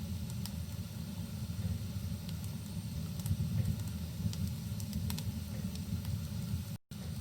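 Wood fire burning in a fireplace: a steady low rumble with scattered sharp crackles and pops, over a soft hiss of rain. Near the end the sound cuts out completely for a split second, then resumes.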